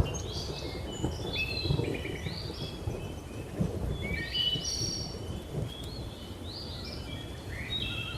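Many birds calling in short, quick chirps and whistled notes over a continuous low rumble of thunder and rain, with a sharp burst of thunder right at the start.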